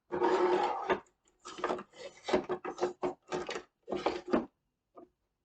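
Kitchen drawer being slid and rummaged through: a long scrape of about a second, then a run of short rubbing scrapes and knocks.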